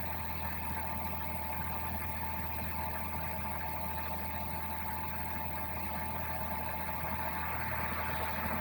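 Suzuki Wagon R's 660 cc three-cylinder engine idling with the air conditioning running to defrost: a steady low hum and blower fan noise, with a thin steady whine over it.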